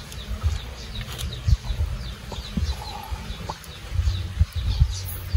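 Small birds chirping over and over in short falling notes, over a low rumble with dull thumps. A few light clicks come from a knife cutting a small piece of wood.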